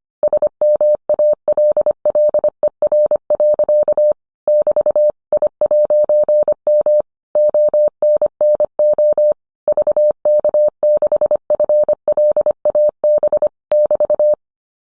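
Morse code: a single steady beep keyed on and off in dots and dashes, with short pauses between letters and words. It stops shortly before the end.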